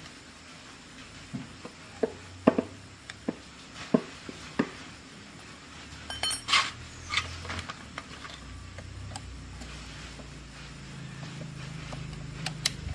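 A series of light knocks and clinks of hard objects being handled, with one brief ringing metallic clink about six and a half seconds in. A low steady hum builds in the second half.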